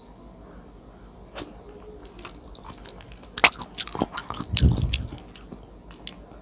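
Close-miked mouth eating sounds: biting and chewing food, with a cluster of sharp wet clicks and one louder, fuller chew in the middle. The first few seconds are quieter, with a single click.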